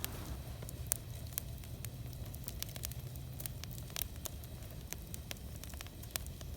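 Campfire of split firewood crackling, with sharp irregular pops scattered through over a low steady rumble.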